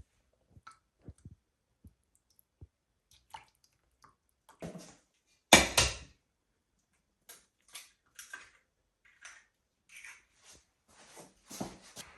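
Scattered small knocks, clicks and handling noises, with one louder noise about five and a half seconds in and busier clatter near the end.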